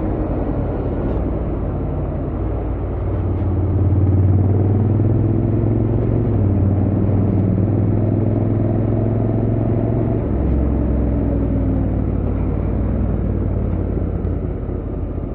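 Honda X-ADV 750's 745 cc parallel-twin engine running through its stock exhaust while riding, with wind and road noise. The engine note grows louder about four seconds in and changes about ten seconds in.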